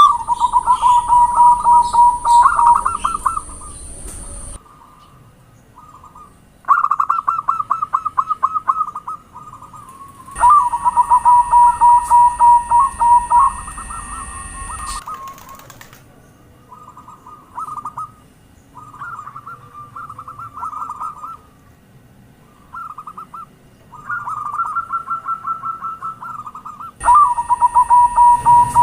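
Zebra doves (perkutut) cooing: phrase after phrase of quick, rattling coos, each phrase a fast run of notes lasting one to three seconds. Some phrases are loud and others fainter.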